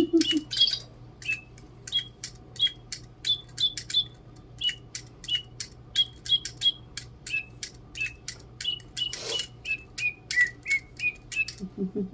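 Digibirds electronic toy birds chirping: a steady run of short, clicky electronic tweets, about two or three a second, hopping between a few pitches. About nine seconds in there is one brief rushing noise.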